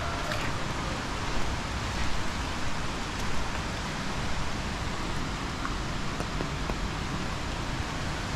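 Heavy rain falling, a steady hiss with scattered individual drops ticking.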